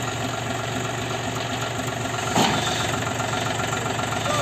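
John Deere 5045D tractor's three-cylinder diesel engine running steadily, with a single sharp knock about two and a half seconds in.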